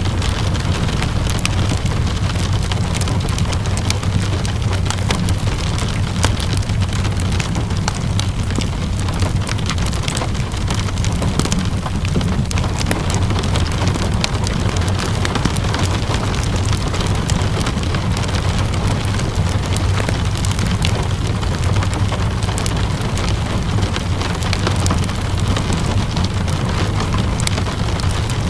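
Steady rain pattering on a surface, mixed with a crackling wood fire whose many small pops and snaps come irregularly over a constant low rumble.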